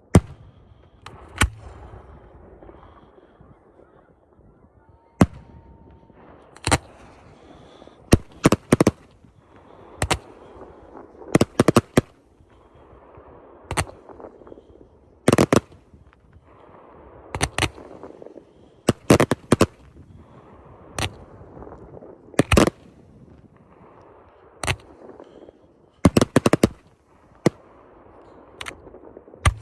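Fireworks going off in a show: a string of sharp bangs, some single and some in quick doubles and triplets, with a low rumble lingering between the reports.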